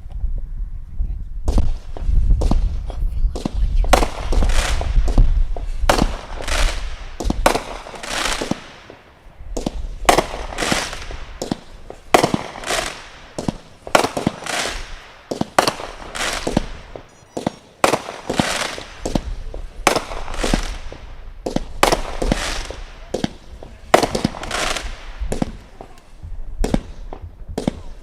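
Consumer firework cakes firing: sharp aerial bangs with short crackling tails, going off in quick succession about once or twice a second, starting about a second and a half in.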